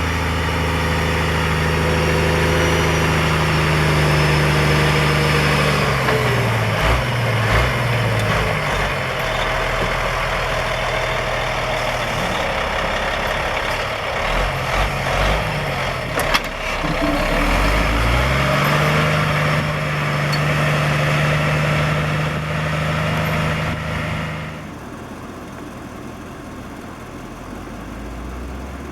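Six-wheel-drive Western Star plow truck's diesel engine running hard over a heavy rushing noise. The engine's pitch sinks as the truck slows, then climbs again as it picks up speed. The sound falls away abruptly about 25 seconds in.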